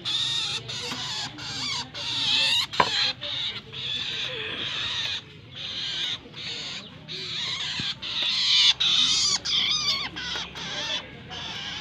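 Long-tailed shrike (cendet) chattering and singing in fast, scratchy, wavering high notes, broken by short pauses.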